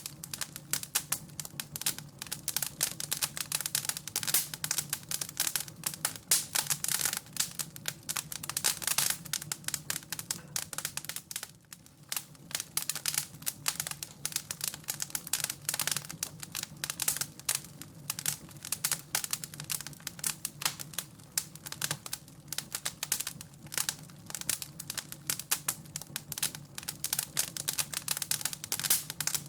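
Wood fire in a fireplace crackling, with dense irregular pops and snaps over a steady low hum. The crackling eases briefly about twelve seconds in.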